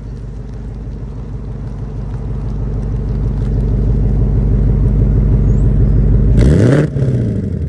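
Ford Mustang GT's 5.0-liter V8 idling with a deep rumble, then revved once in a quick throttle blip about six and a half seconds in.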